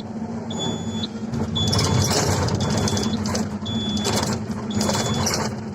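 Heavy diesel earthmoving machinery running steadily, with a high warning alarm beeping about once a second. Loud rushing, rattling noise comes and goes over it several times, the strongest about two seconds in.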